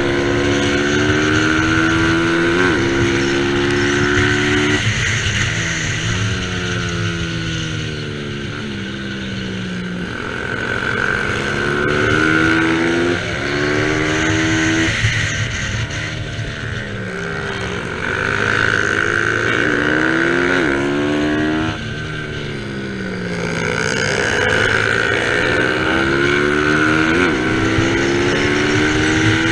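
Single-cylinder Bajaj Pulsar 200 NS motorcycle engine racing around a track. Its pitch climbs repeatedly under acceleration and drops sharply at each upshift, with longer falling runs where the bike slows for corners.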